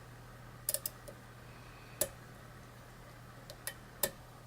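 Small, sharp metallic clicks from a lock pick and tension tool working the pins inside a challenge lock, about half a dozen at irregular intervals. The picker takes the situation for an overset pin.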